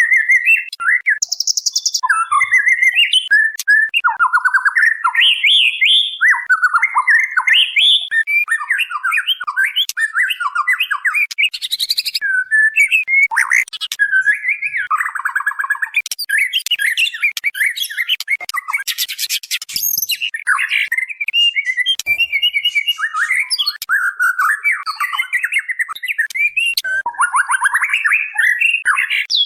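White-rumped shama (murai batu) calling in a rapid, unbroken stream of varied chirps and warbled phrases. This is a female's call, used as a lure to draw males.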